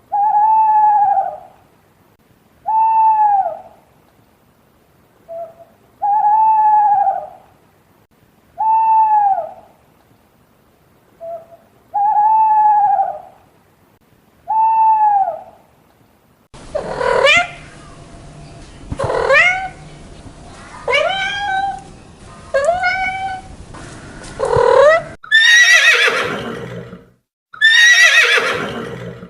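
An owl hooting in repeated phrases, a short note followed by a longer arched hoot, for a little over half the time. Then a horse whinnying several times, the last calls louder and falling steeply in pitch.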